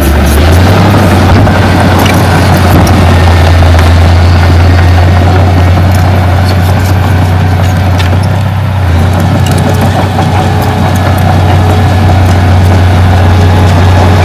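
Diesel engine of heavy earthmoving machinery running with a loud, steady low drone that changes pitch slightly about half a second in and again around nine seconds, with scattered clanks over it.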